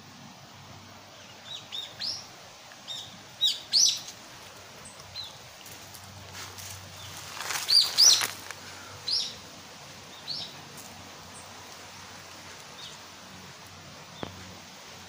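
Wild birds chirping: a string of short, high calls that come in little clusters, loudest about eight seconds in, then fall away.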